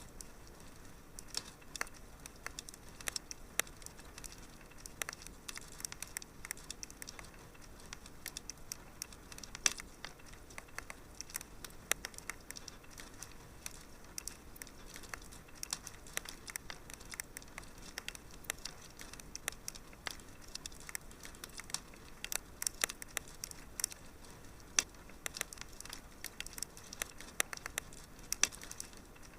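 Wood fire crackling in a fireplace: a faint steady hiss with many small sharp pops and snaps at irregular intervals.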